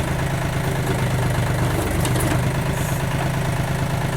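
Backhoe's diesel engine running at a steady speed, with a couple of faint clicks about two and three seconds in.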